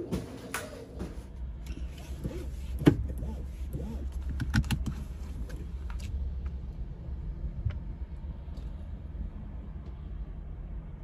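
Low steady rumble of a car's engine idling, heard inside the cabin, with scattered clicks and knocks from handling close to the microphone, the loudest about three seconds in.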